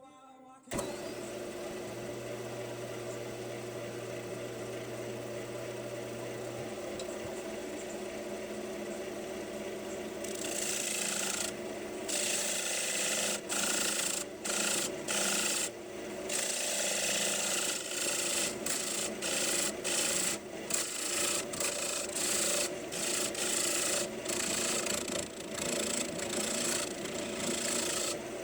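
A wood lathe starts running with a steady hum about a second in. From about ten seconds in, a rough rubbing sound comes in short strokes with brief breaks as a tool works the spinning maple bowl.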